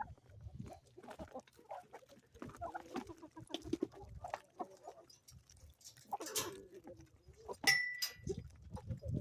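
Chickens clucking, with short calls scattered through and a brief high-pitched call about three-quarters of the way in.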